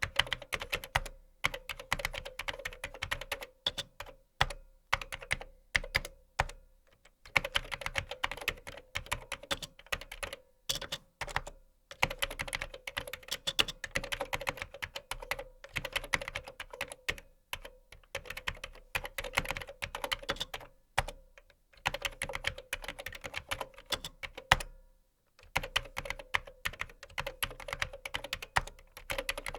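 Typing on a computer keyboard: fast runs of key clicks broken by short pauses of about half a second.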